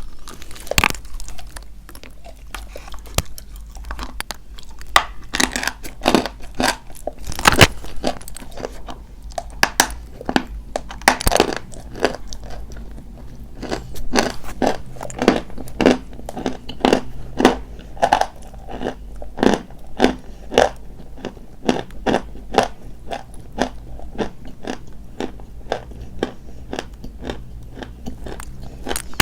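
Dry white chalk being bitten and chewed close to the microphone: a long run of sharp, irregular crunches, several in quick succession at times.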